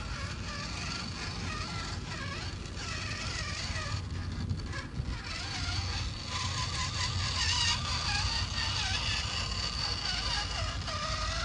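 Scale model Toyota Blizzard truck's motor and gears whining, the pitch rising and falling with the throttle as it drives, louder in the second half.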